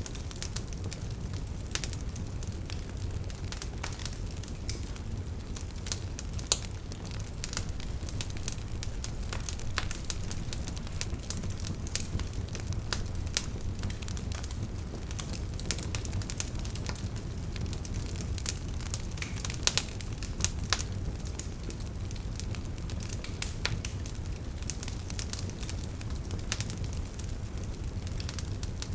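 Wood campfire burning, with a steady low rumble of flame and many irregular crackles and sharp pops from the burning firewood.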